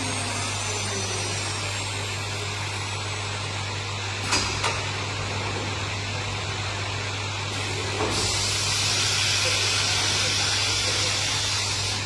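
Steady mechanical hum with two sharp clicks about four seconds in; after another click about eight seconds in, a loud hiss sets in and holds.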